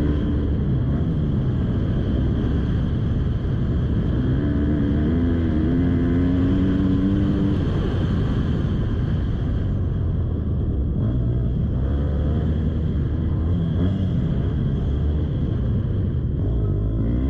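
Motocross bike engine being ridden, its revs climbing and dropping again and again over a heavy steady low rumble; the changes in pitch are clearest about four to eight seconds in.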